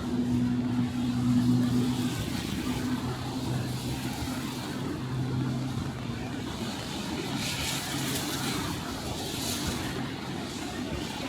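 Road traffic: a vehicle engine running with a steady low hum, over a constant wash of street noise.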